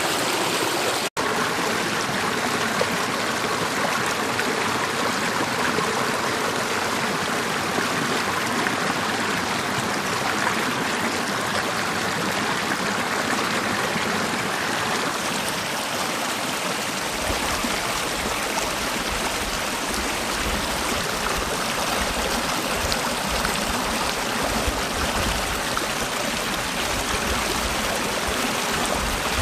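Mountain valley stream, water rushing steadily. The sound cuts out for an instant about a second in, and a low rumble joins past the middle.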